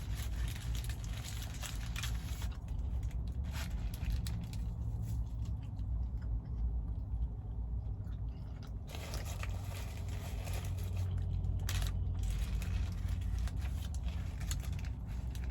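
Close-up chewing and biting of McDonald's food: irregular wet crunches and smacks over a steady low hum.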